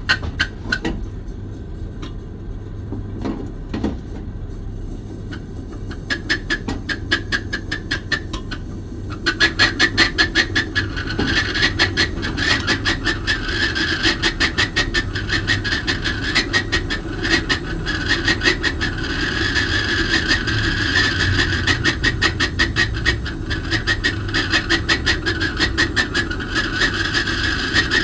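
Gas brazing torch flame burning on copper refrigerator pipes, a fluttering hiss over a low steady hum that grows louder about nine seconds in.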